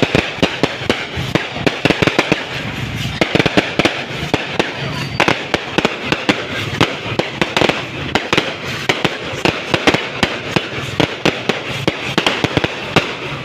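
Fireworks and firecrackers going off in rapid succession: a continuous run of sharp bangs and crackles, several a second.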